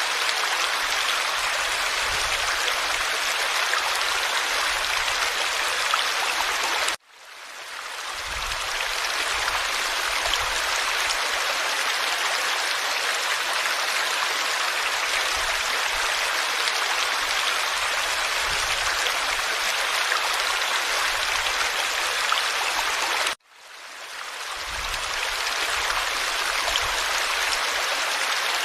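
Forest stream flowing, a steady rushing and babbling of water. Twice the sound cuts out suddenly and fades back in over about a second.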